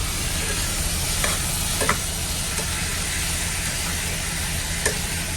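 Beef sizzling in a hot pot while it is turned with tongs, with a few short clicks and scrapes of the utensil, under a low steady hum.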